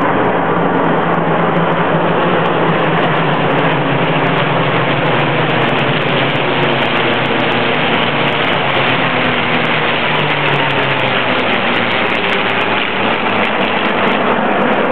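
A massed formation of P-51 Mustangs flying over, their V-12 piston engines droning loudly and steadily, the pitch slowly falling as they pass.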